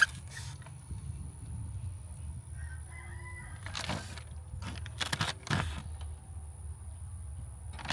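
Several sharp knocks and clatters, the loudest around four and five seconds in, over a low steady rumble, with a faint short call a little under halfway through.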